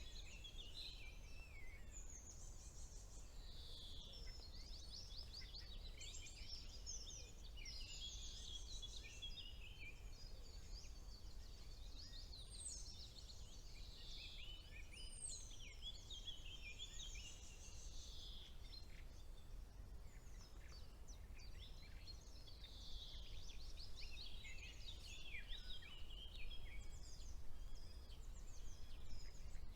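Several songbirds singing at once, a busy mix of chirps, trills and quick downward-sweeping whistles, over a faint steady low rumble.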